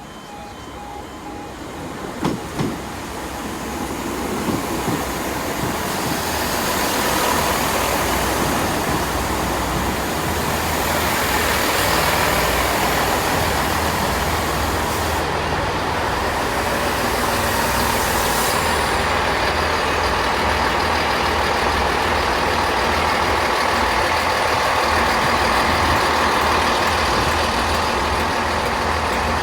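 Diesel multiple unit train approaching and running by. It grows louder over the first several seconds, then stays loud and steady with a low engine rumble, and there are a couple of sharp clicks about two seconds in.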